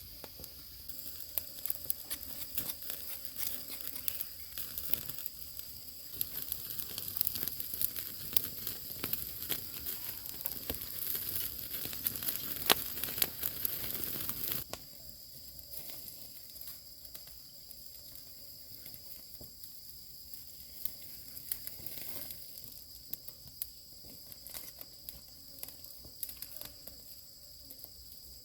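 Dense crackling and crinkling from outdoor cooking work for about the first fifteen seconds, cutting off abruptly to a quieter stretch of scattered clicks. A steady high insect drone runs underneath throughout.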